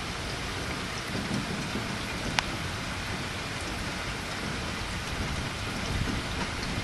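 Steady rain falling during a thunderstorm, with a low rumble underneath. One sharp tap a little over two seconds in.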